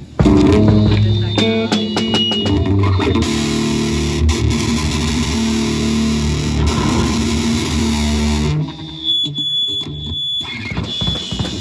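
Heavily distorted electric guitar played loud through an amplifier in a live metal set, holding long low chords. The playing drops out briefly a little after the middle and then starts again.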